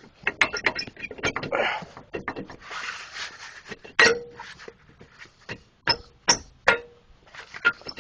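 Metal hand tools and parts clinking and knocking, with two sharp strikes, about four seconds in and near the end, that ring briefly, and stretches of scraping in between.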